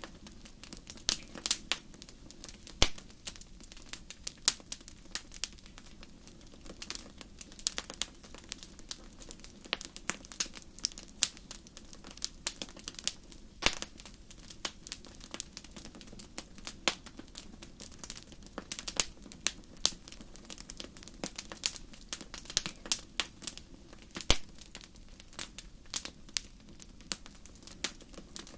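Wood fire burning in a fireplace, crackling with frequent irregular pops and snaps over a low steady background.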